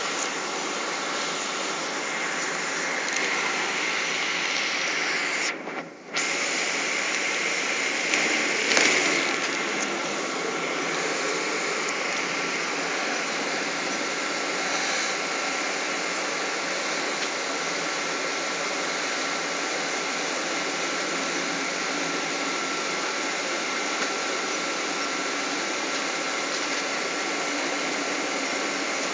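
Steady rushing cabin noise inside a Boeing 777 on the ground before takeoff, from the air conditioning and running engines, with a thin steady whine over it. The sound drops out for about half a second around six seconds in, and briefly swells a few seconds later.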